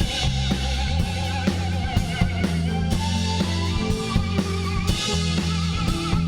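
Rock band playing live with guitar, bass and drum kit, an instrumental passage with a steady beat and sustained bass notes.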